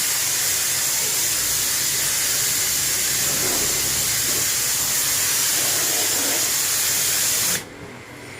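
Steady hiss of a high-pressure water spray jet washing an air-conditioner unit, cut off suddenly near the end.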